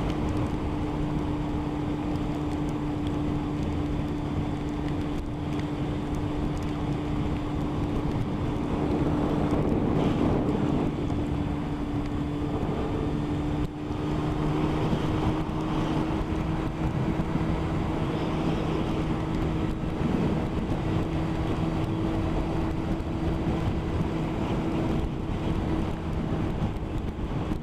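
Motorcycle engine running at a steady motorway cruise, one even tone that edges slightly higher about halfway through, under a constant rush of wind and wet-road noise.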